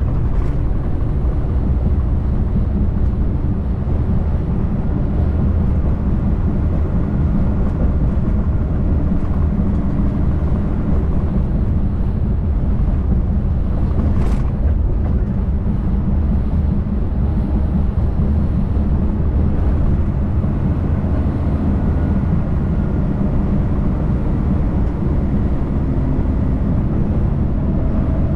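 Semi-truck's diesel engine and road noise heard from inside the cab as it drives: a steady low drone, with one brief click about halfway through.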